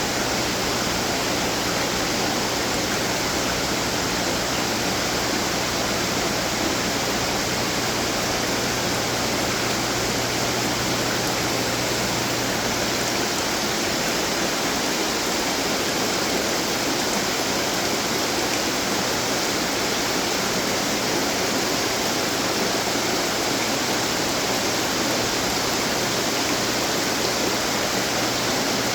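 Water fountains splashing, a steady rush of falling water. A low hum underneath fades out about halfway through.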